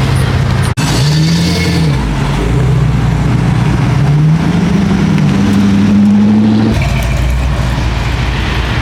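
A car engine revving: the pitch rises and falls twice, then climbs steadily for a couple of seconds before dropping back to a low rumble.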